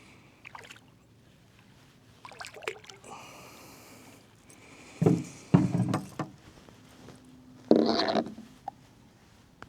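Water sloshing and knocks against a small boat's hull, with a few loud thumps about five seconds in and a splash-like burst near the end.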